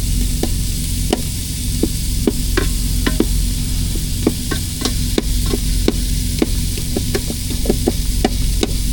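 Partly frozen ground meat sizzling in a frying pan while a utensil knocks and scrapes against the pan, breaking the meat up with many quick clicks. A steady low hum runs underneath.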